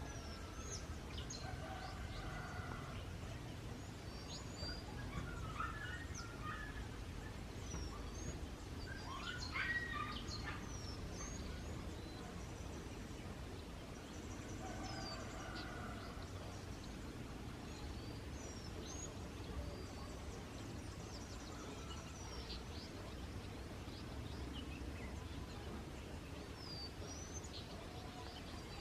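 Several wild birds chirping and calling in short, high notes scattered throughout, with a louder burst of calls about ten seconds in, over a steady low background rumble.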